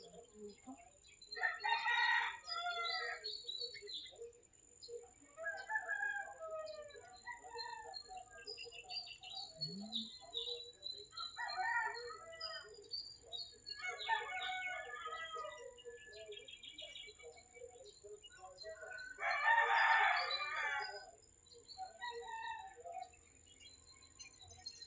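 A rooster crowing twice, once about two seconds in and again near the end, over steady chirping of small birds.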